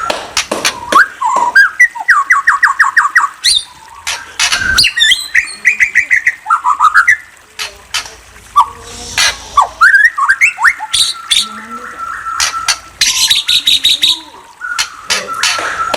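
A murai songbird singing loudly: varied whistled phrases and pitch glides mixed with fast repeated-note trills and sharp clicking calls, broken by short pauses.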